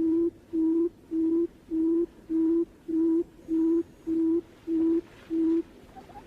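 Barred buttonquail calling: a steady series of about ten deep, even hoots, roughly two a second, which stops a little before the end.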